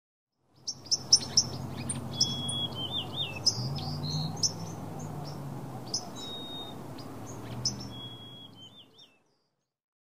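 Birds chirping, with short high calls and a few wavering whistled notes, over a low steady rumble; the sound fades out near the end.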